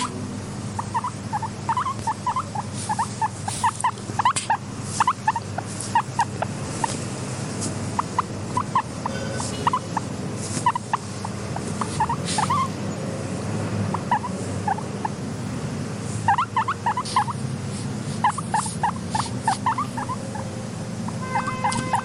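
Guinea pig calling in quick runs of short chirping squeaks, in bursts with brief pauses between, with scattered small clicks and a steady low hum underneath.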